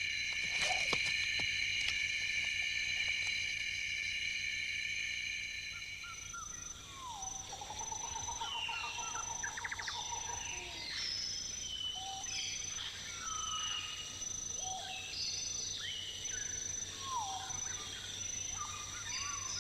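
Tropical rainforest night ambience: a steady, high, shrill insect chorus, which gives way about six seconds in to a busy mix of short chirps and gliding whistled calls over a thin high insect tone.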